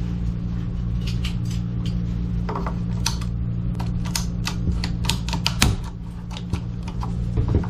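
Ratcheting pipe cutter cutting through CPVC water pipe: a series of irregular sharp clicks over a steady low hum.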